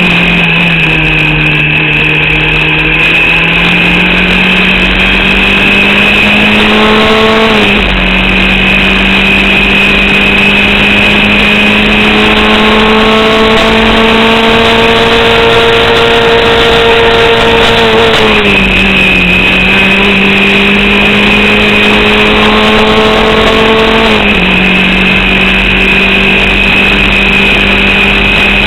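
Formula Vauxhall 8-valve four-cylinder race engine heard onboard, pulling through the gears. Its pitch climbs slowly and drops sharply about 8 seconds in, again around 18 seconds and near 24 seconds, while staying in a narrow, low range. The driver blames this on a misfire and an alternator/battery fault that leave only about 4500 rpm available.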